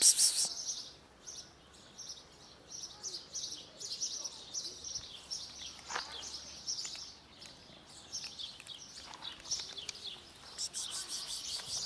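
Small birds chirping busily and continuously, with louder bursts of rapid chirps right at the start and again near the end.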